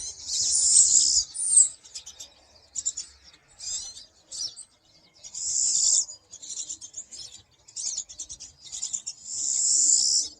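Pine siskins calling from a flock: three long calls of about a second each, among many short, quick chirps.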